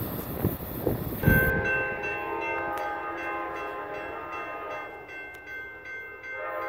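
A departing passenger train's wheels rolling over the rails with a few knocks. About a second in, this cuts to music of steady held tones.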